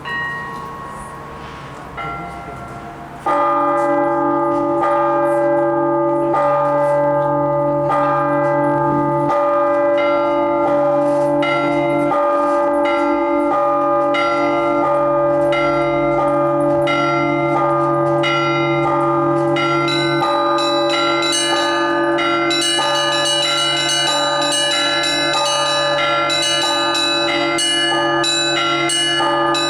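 Russian Orthodox church bells rung by a single bell ringer. A few separate strokes come first; about three seconds in, a full peal begins, with small bells struck in quick rhythm over the lingering hum of the larger bells, and the high bells grow busier in the second half.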